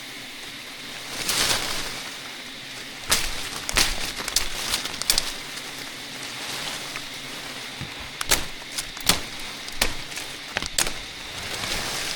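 A series of irregular sharp knocks and clicks, clustered in two runs, over a steady outdoor hiss, with a brief rustling swell about a second in.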